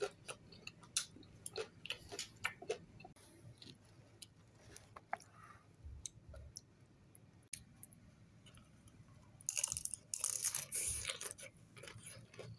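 Close-up mouth sounds of eating pani puri: crisp fried puri shells crunching and being chewed, in scattered sharp crackles. There is a louder, denser stretch of crunching about ten seconds in.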